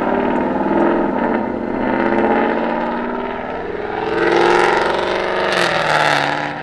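Car engine revving hard and accelerating, its pitch climbing and dropping several times, loudest a little past the middle.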